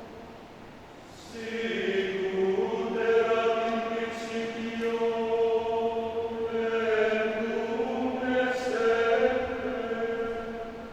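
Men's choir singing long held chords in harmony. The singing swells in about a second in after a softer, fading chord and tapers off near the end.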